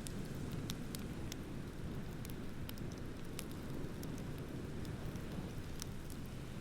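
Wood bonfire crackling with many sharp, irregular pops, over a steady low rush of ocean waves.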